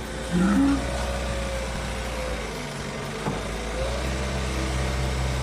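A steady low engine drone, like a running vehicle heard from inside. A thin whine wavers up and down above it, with a brief louder tone about half a second in.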